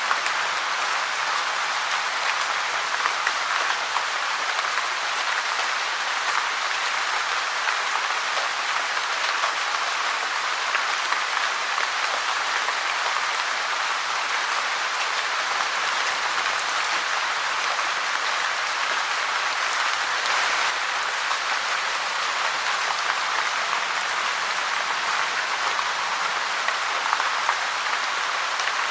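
Steady rain falling, a dense, even hiss of many small drops with no change in strength.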